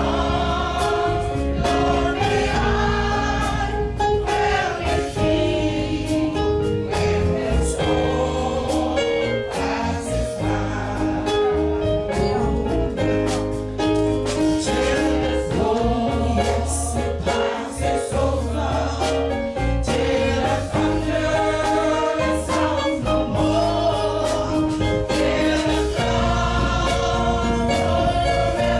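Gospel choir singing with a band, over a steady bass line and beat.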